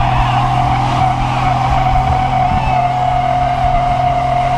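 A car's tyres squealing steadily under wheelspin, with the engine held at steady high revs; the squeal falls slightly in pitch.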